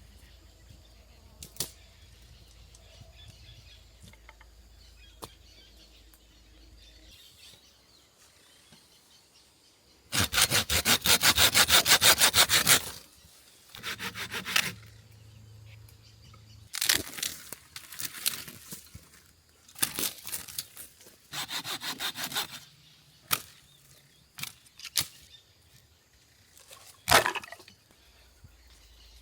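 Dry wood being sawn and broken by hand for firewood: several bursts of fast rasping strokes, the loudest lasting about three seconds near the middle, and a sharp crack near the end.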